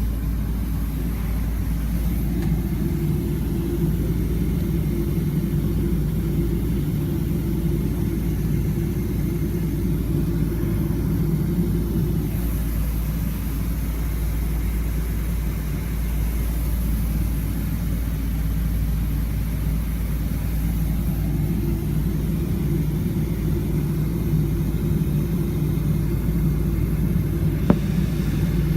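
Steady low rumble of an airliner's jet engines and airflow, with a single brief click near the end.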